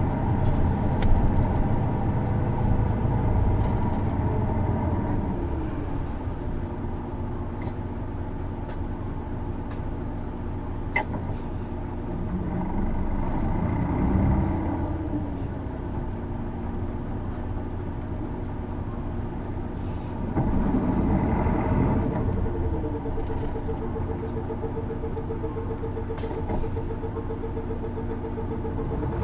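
Isuzu Erga city bus's diesel engine heard from inside the cabin while driving. The revs rise and fall several times as the bus accelerates and eases off, loudest about two-thirds of the way through. This engine is known for a distinctive odd noise, a trait seen in other PKG-era Ergas, especially automatics.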